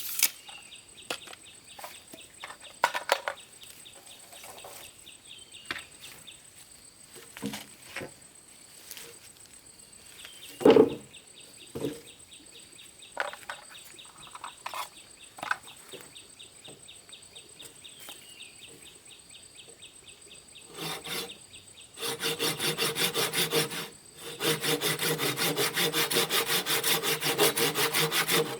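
Scattered knocks and taps against a steady high insect trill. About two-thirds of the way in, a saw starts cutting, likely through bamboo, in fast even strokes, stopping briefly once before carrying on.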